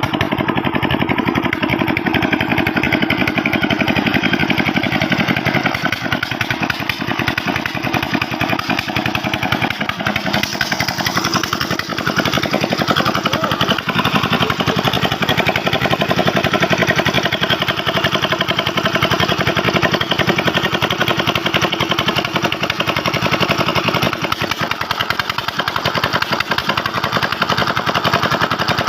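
Old Petter diesel engine driving a tube well, running steadily with a rapid, even beat of firing strokes.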